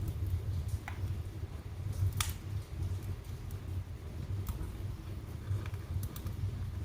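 Wood fire burning in a fireplace: a steady low rumble of flames with scattered crackles and pops, the sharpest pop a little over two seconds in.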